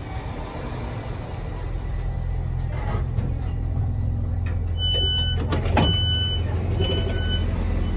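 Low, steady rumble of a diesel train, growing a little louder. About five seconds in come three short runs of high electronic beeping with a knock among them.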